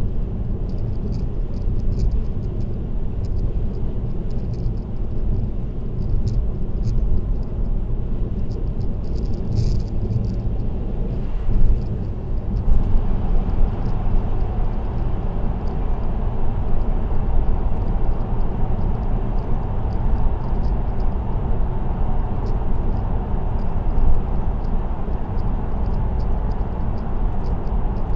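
Steady road and tyre noise of a car driving at expressway speed, a low rumble with light ticking rattles throughout. The rumble turns brighter about 13 seconds in.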